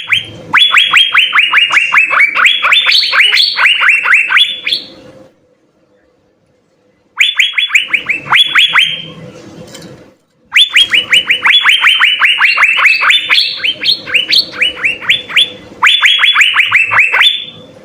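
Asian fairy-bluebird (cucak biru) singing: three long bursts of rapid, repeated clear whistled notes, about five a second, each note dropping in pitch, with short pauses between the bursts.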